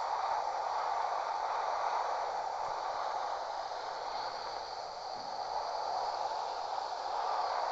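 A steady breeze blowing through grass, a continuous rustling hiss that eases slightly midway and then picks up again.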